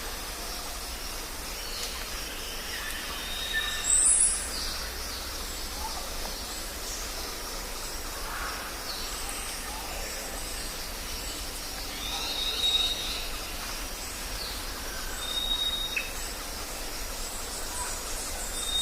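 Jungle ambience: a steady background hiss of the forest with scattered bird calls over it, the loudest a sharp high chirp about four seconds in, and several short high whistled notes repeating through the rest.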